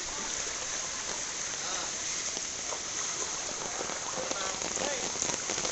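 Heavy rain pouring steadily, a dense even hiss of drops, with faint voices in the background near the end.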